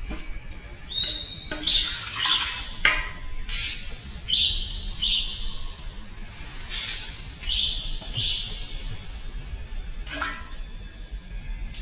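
Birds calling: a run of short, repeated high chirps, over a thin, steady high whistle that holds for several seconds and then stops, with scattered sharp clicks.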